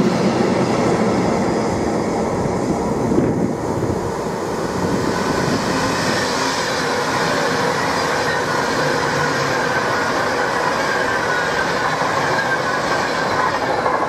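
Freight train running past at speed, a steady rush of wheel and wagon noise on the rails, with a faint, slowly falling wheel squeal in the second half.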